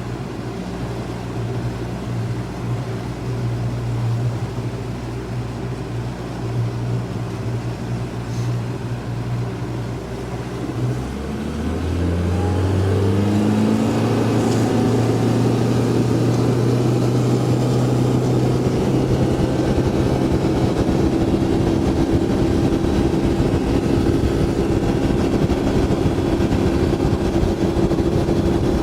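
Boat motor running slowly, then opened up about eleven seconds in: its pitch climbs over a few seconds and settles at a steady, louder cruising speed, with a rushing noise added.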